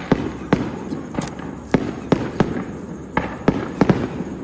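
Fireworks going off: about a dozen sharp bangs at irregular intervals, each with a short echo.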